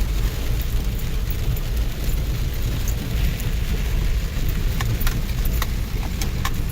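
A vehicle driving slowly over rough, wet ground in heavy rain: a steady low rumble of the drive, with scattered sharp taps and clicks over it.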